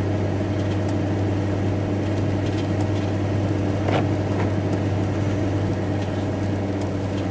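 Steady engine and road drone heard from inside a van's cab while driving, with a few faint clicks, one about four seconds in.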